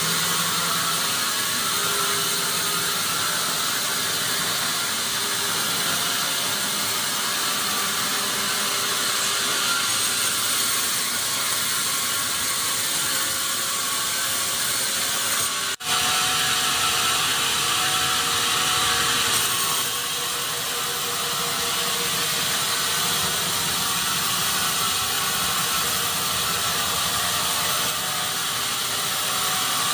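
Sawmill machinery running steadily with a dense mechanical rasp, broken once by a sudden brief gap about halfway through.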